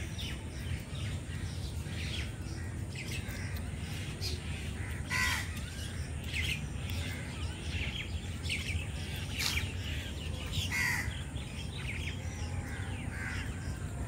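Birds calling in the trees: a few short, harsh calls about five seconds in and again near nine and a half and eleven seconds, with smaller chirps between, over a steady low rumble.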